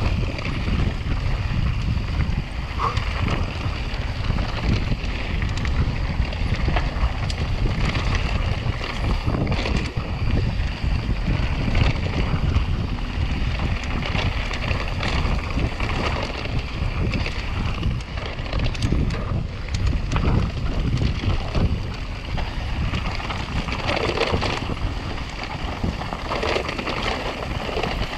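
Wind buffeting a body-mounted action camera's microphone on a mountain-bike descent, over a continuous low rumble of tyres and bike on rough trail with scattered faint clicks and rattles.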